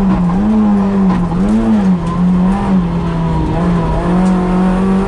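Peugeot 106 rally car's engine at speed, heard from inside the cabin. Its pitch rises and falls several times as the throttle comes on and off through the bends, steadying in the middle and climbing again near the end.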